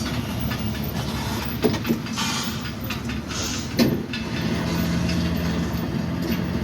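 Studio-tour tram running with a steady low rumble, with a few knocks and two short bursts of hiss, and a steady hum setting in about four and a half seconds in.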